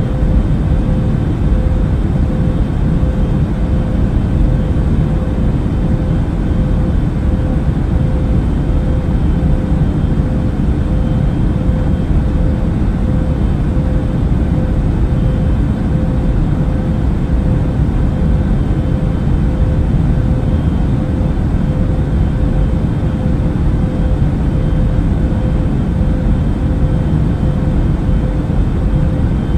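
Airplane cabin noise in flight: a steady, unchanging low rush with a faint steady hum running through it.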